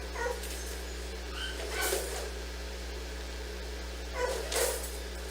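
A dog barking and yipping, with short calls about two seconds in and again near the end, over a steady low hum.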